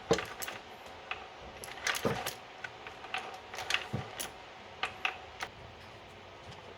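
Scattered light metallic clicks and clinks of hand tools at irregular intervals, as the oil filter housing is opened.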